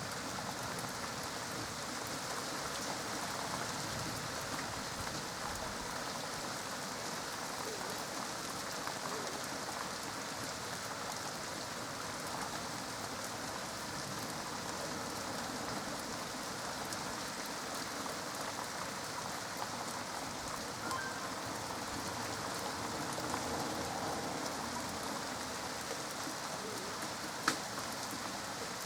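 Steady rain falling during a thunderstorm, with one sharp tick near the end.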